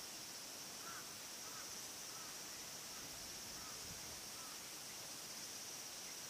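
Faint short bird calls, about six in the first four seconds, over a steady high hiss.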